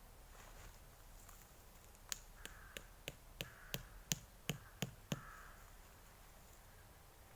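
A quick run of about a dozen sharp taps or knocks, roughly three a second, starting about two seconds in and stopping about five seconds in, against faint outdoor hiss.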